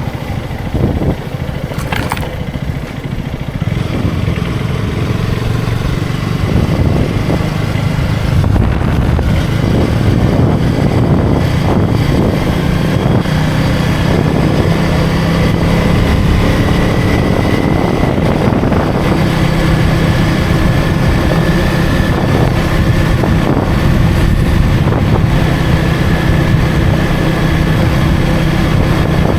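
KTM Duke 250 single-cylinder engine under way on a motorcycle, heard from the rider's position. There is a sharp click about two seconds in. The engine note builds over the next several seconds as the bike gathers speed, then holds steady at cruising speed.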